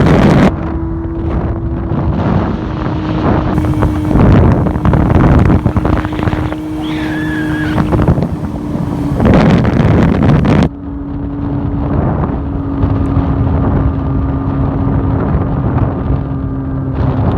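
Quad bike fitted with a Honda CBR600F2 inline-four motorcycle engine, running at speed with a steady engine note under heavy wind buffeting on the microphone. The loudness drops abruptly about ten and a half seconds in.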